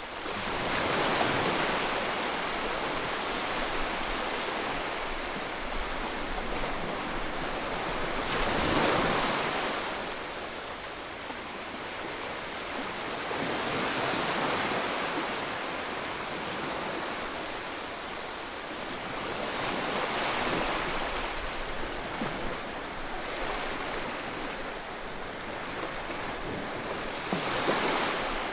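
Ocean waves breaking on the shore, a steady wash of surf that swells with each wave about every five or six seconds.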